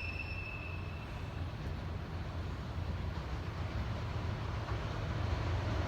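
Low, steady rumble of an approaching freight train's DF200 diesel-electric locomotive, growing slowly louder.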